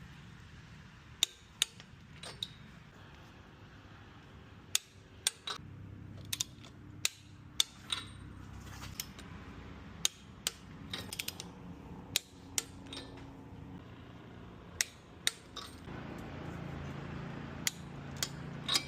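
Hand tools working at a spark plug on a Lycoming aircraft engine: irregular sharp metal clicks and clinks, a dozen or more spread through, over a faint steady hum.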